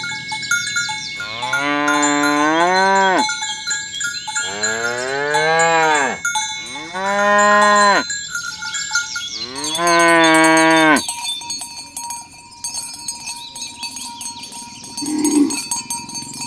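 Cattle mooing: four long moos in a row, each rising and then falling in pitch, the last ending about eleven seconds in.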